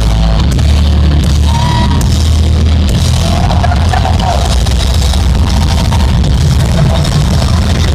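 A heavy metal band playing live and loud, with a steady wall of distorted guitar, heavy bass and drums.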